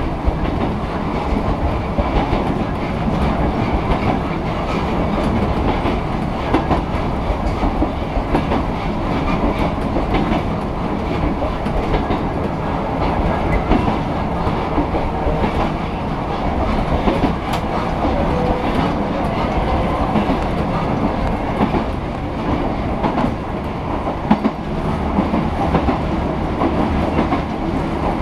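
Electric train of the Yoro Railway 610 series running steadily along the track, heard from inside the driver's cab: a continuous rumble of wheels and running gear with scattered clicks from the wheels.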